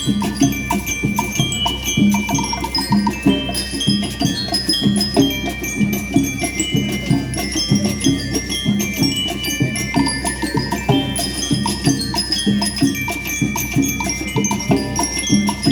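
School rhythm band playing. Metal bell lyres ring a quick melody of short, bright notes over a steady drum beat.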